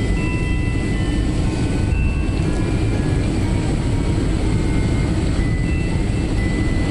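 Airliner cabin noise on final approach: the steady low rumble of the jet engines and rushing air, heard from inside the passenger cabin.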